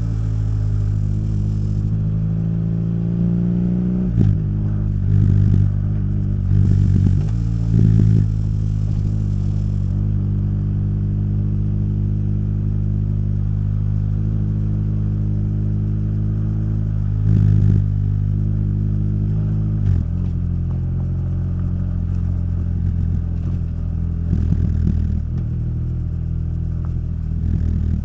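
Motorcycle engine and exhaust while riding, running steadily with short bursts of throttle in the first several seconds and again around 17 seconds, then settling to a lower note after about 20 seconds.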